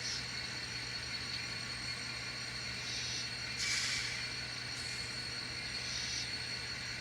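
N scale model railroad layout running quietly: a steady low hum with a faint high tone, broken by a few short hisses, the loudest lasting about half a second, starting about three and a half seconds in.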